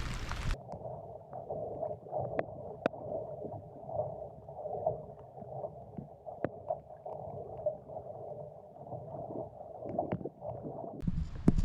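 Muffled, dull water noise with scattered small clicks, all the higher sound cut off, as heard through a submerged or sealed-off camera.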